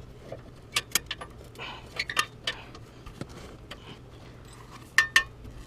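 Metal clinking and tapping as a welded steel exhaust hanger is worked into its mount under a truck. The hanger still does not go in because not enough was ground off. Scattered sharp clinks are followed by two loud metallic taps close together near the end that ring briefly.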